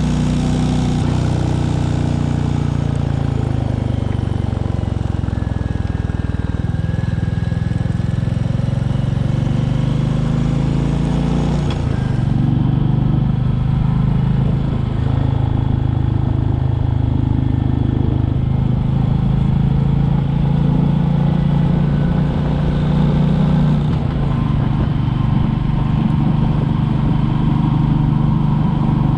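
Royal Enfield Classic 350's single-cylinder engine running while riding, its note dipping and rising a few times as the speed changes. A high hiss over the engine drops away about twelve seconds in.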